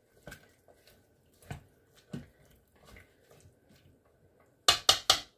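Metal utensil and cookware clinking in an Instant Pot's inner pot: faint scattered taps, then a quick run of about four sharp clanks near the end.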